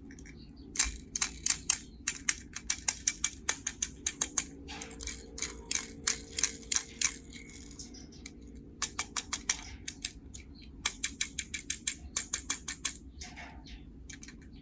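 Quick runs of small sharp clicks, several a second, in bursts with short pauses between them: small plastic and die-cast toy parts being handled.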